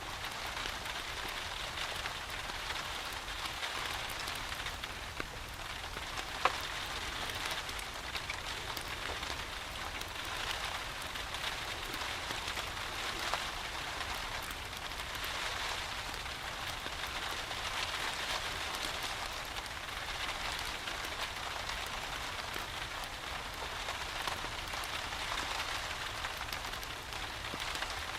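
Steady rain falling, with a wood fire crackling in a fireplace and one sharp pop about six and a half seconds in.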